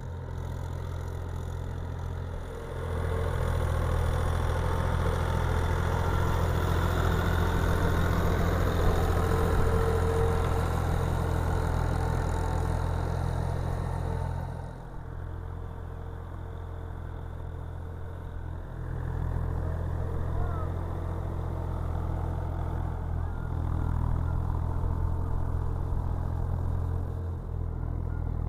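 Tractor engine running steadily with a low, even hum while it works a muddy rice paddy. It grows louder about three seconds in, eases back about halfway through, then picks up again.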